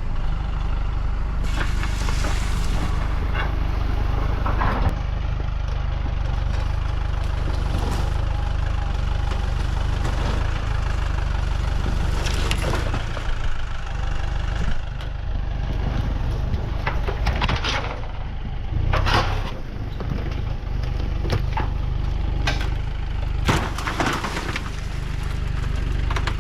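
A tractor engine running steadily, with a low rumble, and a series of scattered knocks and clanks over it.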